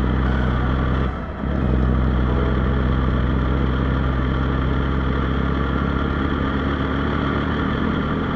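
Heavy diesel engine idling steadily, with a brief dip in level about a second in.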